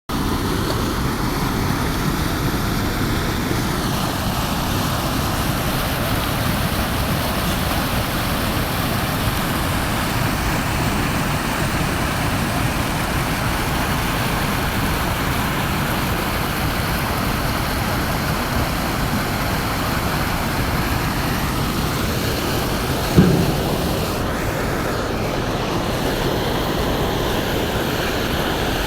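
Heavy rain pouring down in a steady, even roar. One brief low thud stands out late on.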